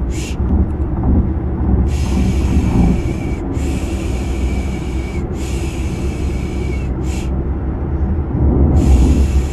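Steady low rumble of a car-ride sound effect with a shushing 'shh' sound laid over it, repeated in strokes of about one and a half to two seconds with short breaks between.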